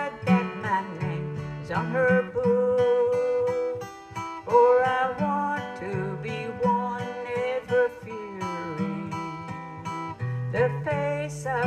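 Instrumental break of an old-time gospel song on acoustic guitar: a lead melody with sliding notes over strummed chords and low bass notes.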